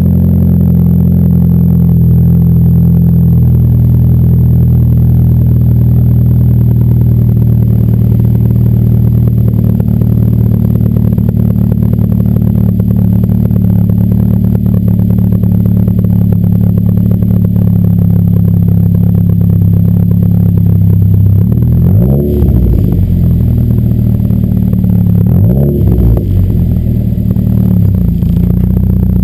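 2007 Ford Focus with an aftermarket BWR exhaust cruising, its exhaust drone holding a steady pitch, then climbing in pitch in two quick spells about 22 and 26 seconds in as the car accelerates.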